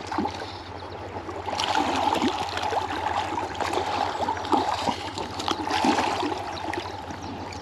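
River water running and trickling, a steady rushing with small gurgles.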